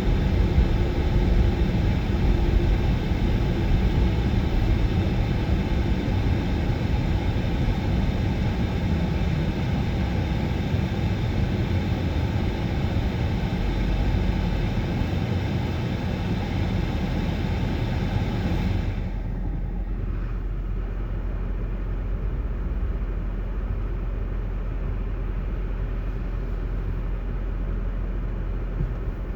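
Steady low rumble of a vehicle in motion, with a faint steady hum over it. About two-thirds of the way through, the high hiss falls away suddenly and the rumble goes on a little quieter.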